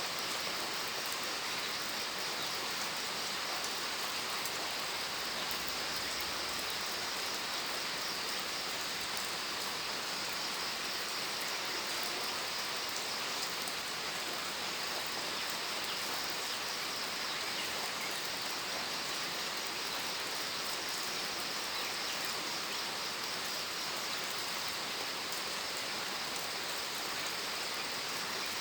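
Steady rainfall, a constant hiss of rain falling on a surface with fine patter of individual drops.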